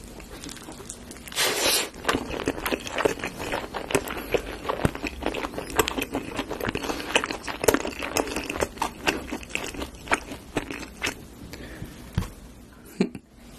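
Close-miked bite and chewing of sauce-glazed fried chicken: a loud crunching bite about a second and a half in, then a long run of irregular crunching and chewing clicks that thins out near the end.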